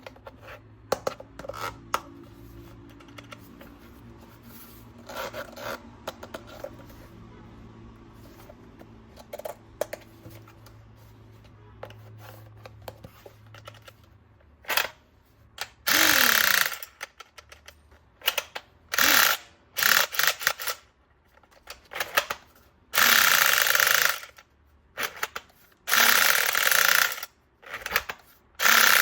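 Plastic toy guns handled, with scattered clicks. From about halfway comes a run of loud bursts about a second long each, in the manner of a toy gun's firing sound or mechanism.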